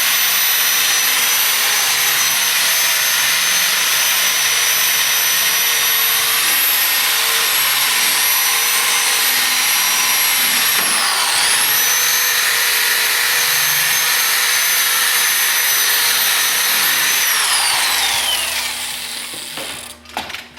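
Electric power tool with a buffing wheel running at speed on stainless steel car trim, a steady high whine over a hiss of polishing. Its pitch dips briefly about halfway through and then recovers. Near the end it is switched off and spins down, the whine falling away.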